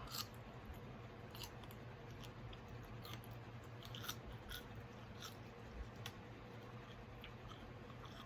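A person chewing and biting food close to the microphone, with scattered soft clicks and small crunches of the mouth.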